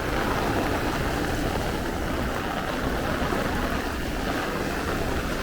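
Heavy rain pouring down steadily, an even hiss of the downpour with a low rumble underneath.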